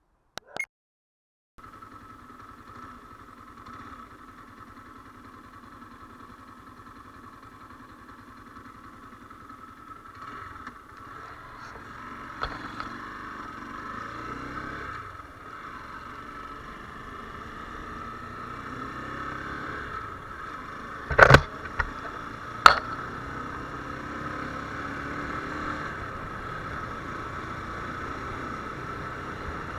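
Viper R2 motorcycle engine running steadily, slowly growing louder. Two sharp knocks come about two-thirds of the way in, a second and a half apart.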